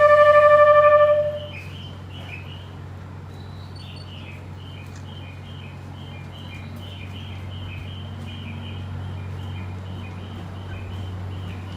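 The E491 East i-E train's music horn playing the last notes of its melody, cutting off about a second in. After it, birds chirp several times a second over the train's steady low hum, which grows slightly louder as it starts to pull away.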